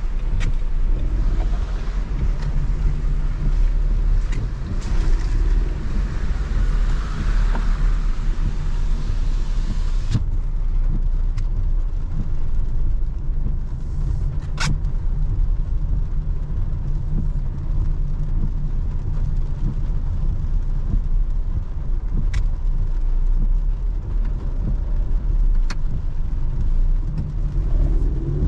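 In-cabin sound of a Renault Clio's 1.0-litre three-cylinder turbo petrol engine pulling steadily in city traffic, with tyre hiss from a wet road. A few single sharp clicks come in the second half.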